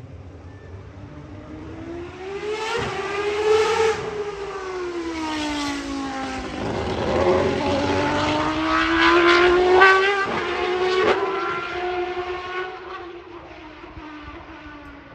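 Historic racing car engines at high revs passing at speed, the engine note climbing and bending in pitch as they go by, with a few sharp cracks as gears change, then fading into the distance near the end.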